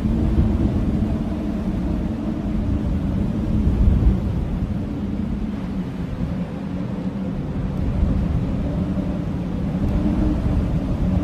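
Blizzard wind howling: a deep, steady rumble of gusting wind with low moaning tones that waver and swell gently.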